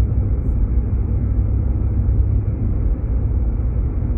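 Steady low rumble of road and drivetrain noise inside a moving Jeep Grand Cherokee's cabin.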